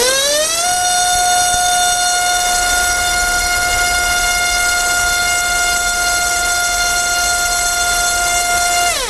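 SMC 2208 2000KV brushless motor spinning a 6x4.5 propeller, throttled up to full power in the first second and held at a steady high whine, then spun down near the end. This is a full-throttle load test, the motor drawing a little over 26 amps.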